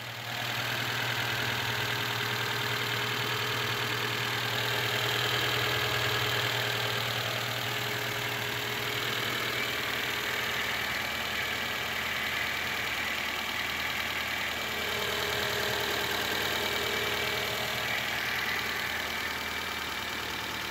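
Rebuilt Honda A20A3 2.0-litre four-cylinder engine idling steadily. The owner has found its cam timing one tooth off.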